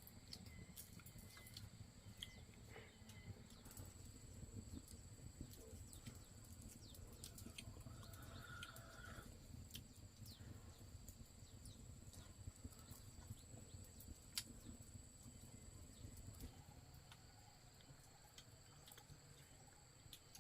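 Near silence: a faint low rumble with scattered light clicks and a steady thin high tone, and a brief faint call about eight seconds in.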